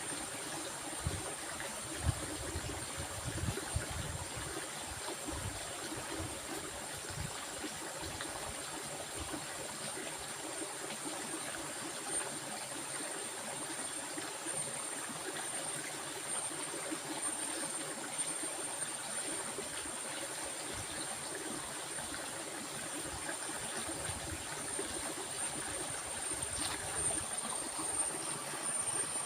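Water flowing steadily in a stream, with a thin, steady high-pitched tone above it and a few soft low thuds in the first few seconds.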